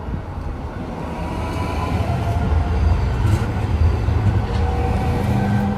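A train running past: a low rumble that grows louder toward the middle, with a faint steady whine above it.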